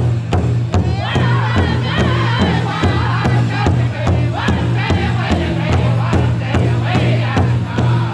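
Powwow drum group singing in high, wavering voices over a steady beat on a big drum, about three strokes a second, with a steady low hum underneath.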